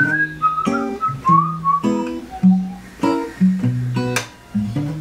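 Acoustic guitar strumming chords in a steady rhythm. A high, wavering melody line plays over the chords for the first two seconds or so.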